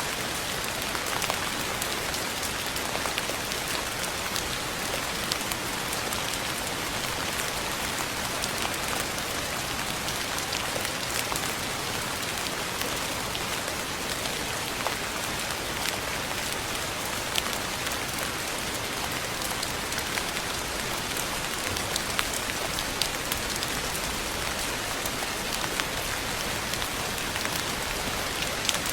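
Steady rain falling on a surface, an even hiss with many individual drops tapping sharply through it.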